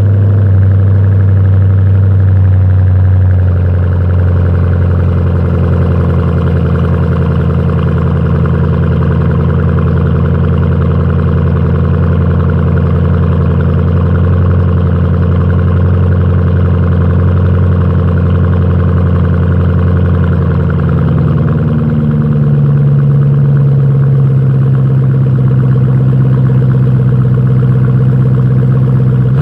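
2008 Mustang GT's 4.6-litre V8 idling through a Pypes Bomb exhaust, with a loud, steady, deep note. About 21 seconds in, the engine speed steps up slightly and holds there.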